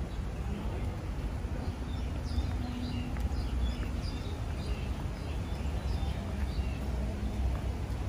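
Small birds chirping, with many short high calls scattered over a steady low background rumble.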